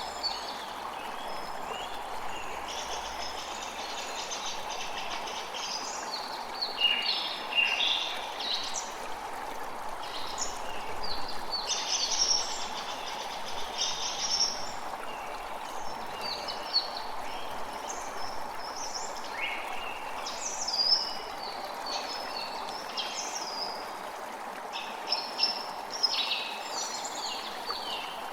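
Creek water running steadily, with songbirds chirping and calling over it in short, repeated phrases throughout.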